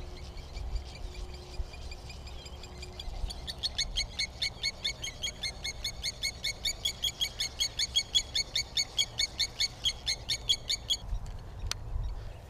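A bird calling a fast, even run of repeated chirps, about six a second. It starts about three seconds in and keeps up for some seven seconds before stopping.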